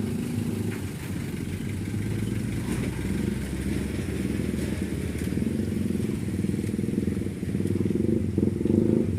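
A vehicle engine running with a steady low drone, swelling a little near the end.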